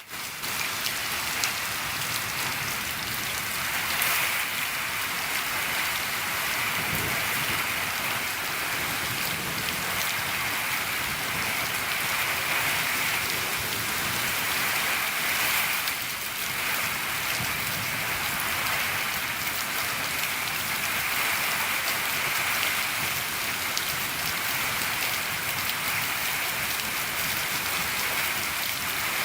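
Steady rain falling on a shed roof: a dense, even patter with a few sharper, louder drops.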